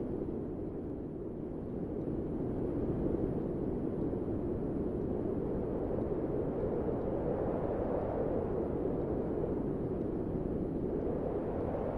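Wind blowing as a steady, low rushing noise with a deep rumble, swelling gently and rising a little in pitch near the end.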